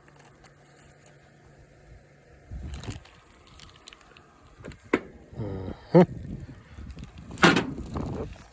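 Scattered knocks and sharp clicks of parts and tools being handled during fuel pump removal, with a dull thump about three seconds in and the sharpest click about seven and a half seconds in.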